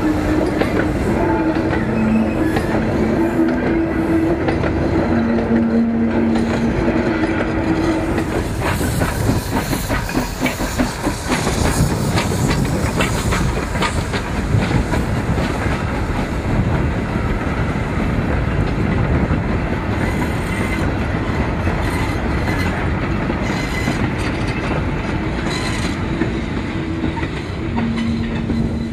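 Steam-hauled coal train of old four-wheeled hopper wagons rolling past close by: a steady rumble and clatter of wheels over rail joints. Wavering squeal and creak from the wagons runs through the first eight seconds or so and comes back briefly near the end.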